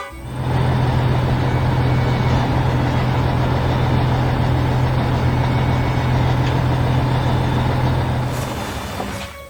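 A heavy vehicle engine running steadily, starting just after the music cuts off and dying away near the end.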